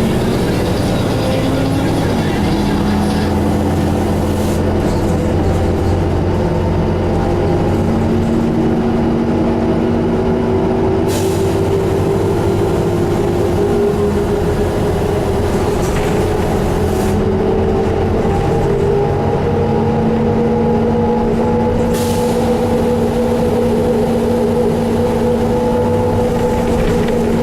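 2001 New Flyer D35LF transit bus under way, heard from inside: its Detroit Diesel Series 50 diesel engine and Allison B400R automatic transmission running, with whining tones that climb in pitch as the bus gathers speed and then hold steady. A few brief sharp noises cut through, the clearest about eleven and twenty-two seconds in.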